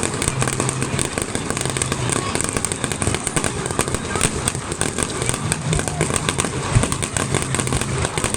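Starmine fireworks barrage: many aerial shells bursting and crackling in rapid, continuous succession.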